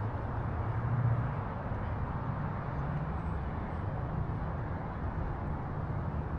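Gusty wind buffeting the microphone, a steady rumbling noise that swells and eases with the gusts.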